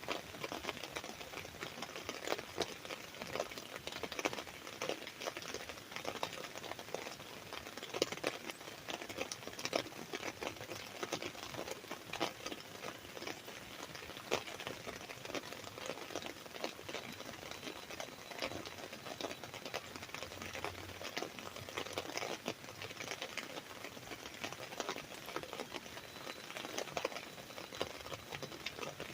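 Rain falling on an umbrella canopy: a dense, steady pattering of many small drop impacts.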